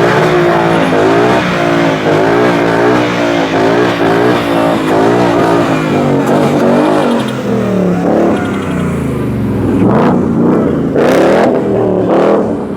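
A car engine revving hard at a burnout, its pitch bouncing rapidly up and down for several seconds. About seven seconds in the revs fall away and climb again, followed by a few louder surges near the end.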